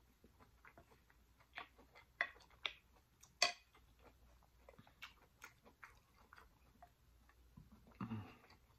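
A person chewing a mouthful of food close to the microphone: irregular soft wet mouth clicks and smacks, with one sharper click about three and a half seconds in. A short hum of voice comes near the end.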